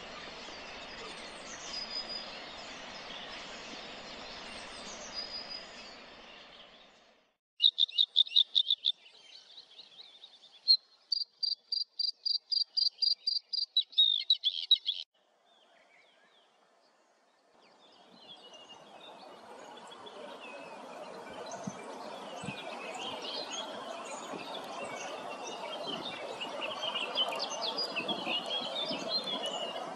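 Birds singing and calling over a steady hiss. A few seconds in, a loud, rapidly repeated high trill sounds on its own for several seconds and cuts off. A dense chorus of many birds then builds up.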